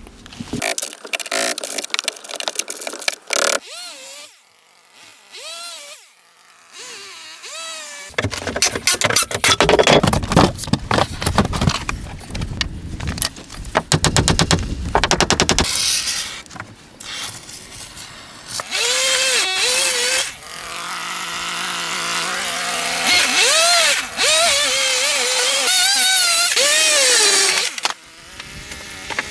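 Cut-together cabin-building work sounds: tool knocks and rapid impacts, then a power tool running with its motor speed rising and falling.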